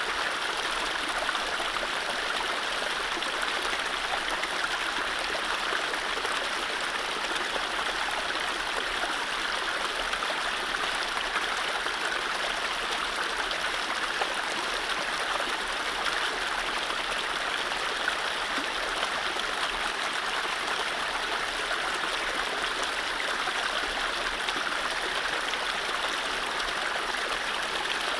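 Mountain stream running over low rapids: a steady rush of water with small splashes and gurgles.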